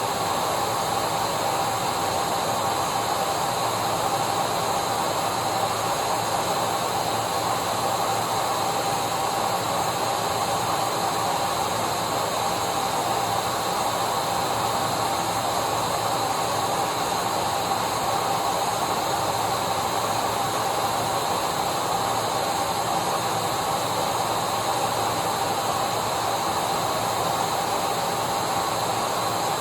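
Electric vacuum cleaner running steadily: an unchanging rushing hiss with a steady whine on top.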